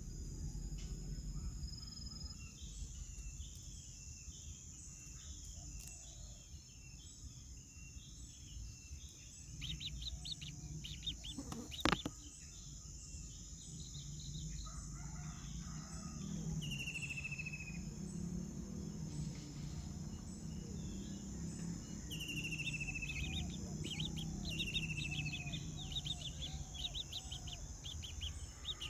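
Outdoor ambience of birds calling: repeated chirps and short falling whistles, mostly in the second half, over a steady high-pitched drone. A single sharp click about twelve seconds in.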